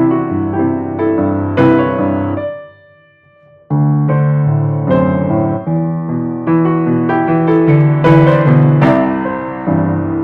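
Piano music: a slow passage of chords and melody notes. It dies away about two and a half seconds in, and after a pause of about a second the playing resumes.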